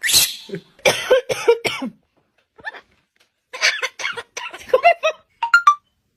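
Pet parrot vocalising: a cough-like rasp, then a run of short chattering, speech-like syllables, ending in a few brief whistled notes.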